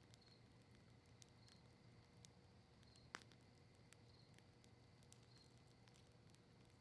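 Faint crackling of a campfire burning cedar leaves and maple wood: scattered small pops and snaps, with one sharper pop about three seconds in, over a low steady hiss.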